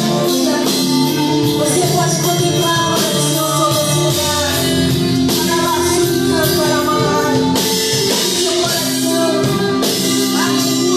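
Live gospel worship music: a band with drum kit and cymbals playing while voices sing.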